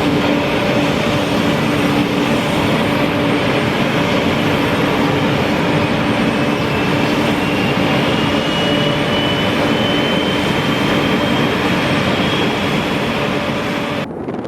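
Embraer Lineage 1000's GE CF34 turbofan engines running loudly and steadily, with a low hum and a high whine that climbs slowly in pitch. The sound cuts off near the end.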